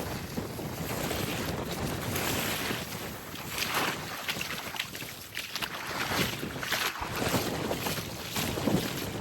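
Small waves lapping and washing onto a sandy beach, with wind buffeting the microphone; the wash swells and fades several times.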